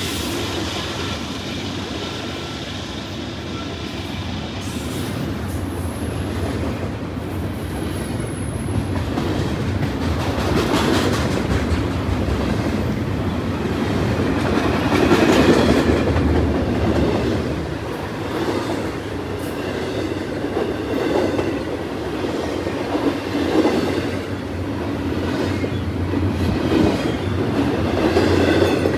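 Freight train cars rolling past at track speed, the wheels clattering over the rail joints in a steady rumble that swells and eases several times, loudest about halfway through.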